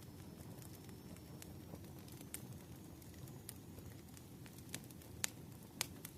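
Fire crackling: scattered sharp pops and snaps, loudest about five seconds in, over a soft steady low rumble.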